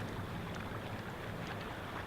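A steady rushing noise, strongest in the low end, with a few faint ticks.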